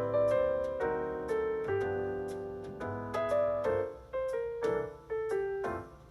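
Background music: a piano playing a melody over chords, each note struck and ringing away.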